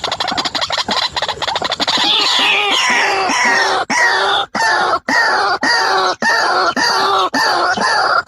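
White-breasted waterhen (ruak-ruak) calling: a fast run of rapid notes that slides down in pitch about two seconds in, then settles into a steady repeated call, roughly one and a half calls a second.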